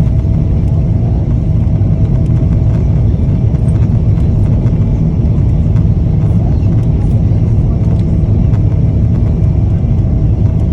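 Steady, loud low rumble of a vehicle or aircraft running, with a faint constant tone above it.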